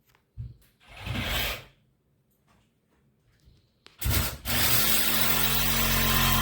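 A power tool cutting into a closet wall with a rasping noise. A brief burst comes about a second in; then, about four seconds in, it starts up and runs steadily and loudly for about three seconds.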